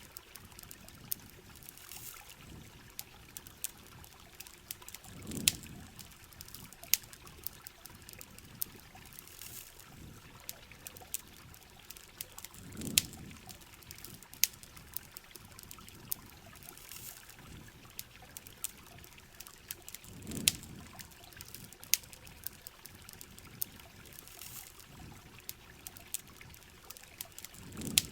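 Heavy rain falling steadily and pouring, with a campfire crackling in sharp, irregular pops over it. A low swell recurs about every seven to eight seconds.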